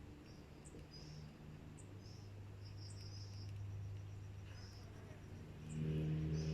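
Short high chirps about once a second from a small caged bird, over a low steady hum. A deeper engine drone swells about six seconds in.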